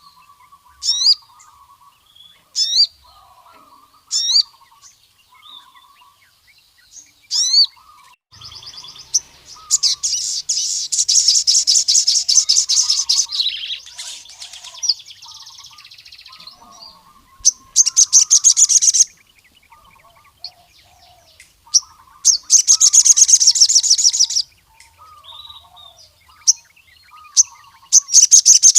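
Male crimson sunbird singing: a string of short, sharp rising chirps, then long, fast rattling trills of a few seconds each, repeated four times.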